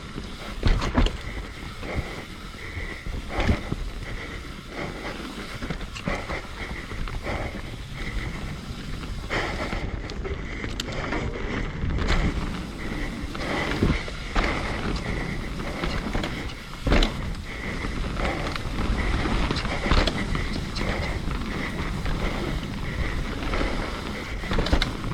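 Mountain bike riding down rough singletrack: tyres on dirt, the bike rattling, and many sharp knocks from bumps and drops, with wind noise on the microphone.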